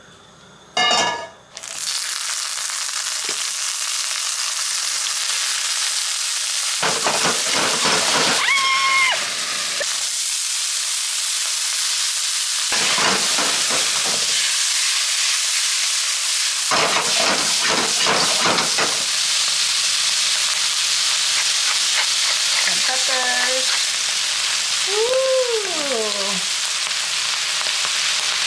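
Beans and corn sizzling loudly in a hot wok over a gas flame. The sizzle starts suddenly about two seconds in, and the food is tossed and stirred with a spatula scraping the pan.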